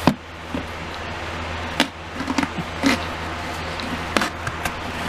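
Several sharp knocks and clacks from handling a plastic toy playset, irregularly spaced, with a cluster in the middle, over a steady background hiss and hum.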